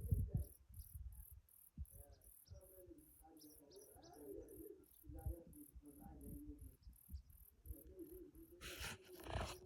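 Crickets chirping steadily in a high, even pulse about three times a second, with faint wavering calls below them. A brief rushing noise comes near the end.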